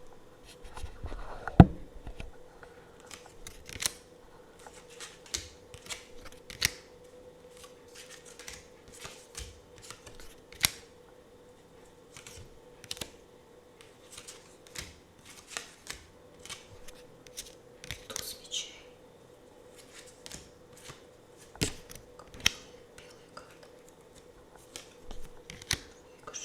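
Tarot and oracle cards handled close to the microphone: crisp clicks and taps at irregular intervals, about one or two a second, with a short rustle of card on card about two-thirds of the way through.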